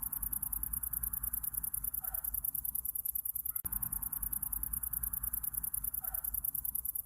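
Night insect chorus of crickets chirping: a steady, fast, high-pitched pulsing, about ten pulses a second, over a low rumble.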